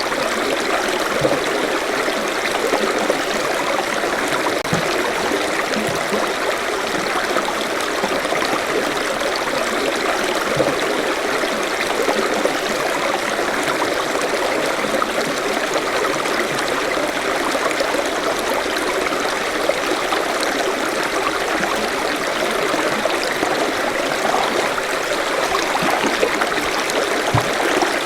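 Forest stream flowing over rocks: a steady rush of water with small gurgles and splashes.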